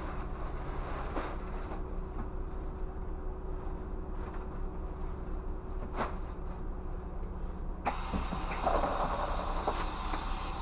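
Scania bus engine running steadily, with a few sharp clicks. About eight seconds in, a louder rush of hissing noise comes in for a second or two.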